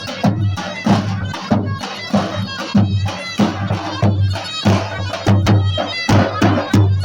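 Loud traditional folk dance music: a reedy wind instrument playing over a steady, driving drum beat.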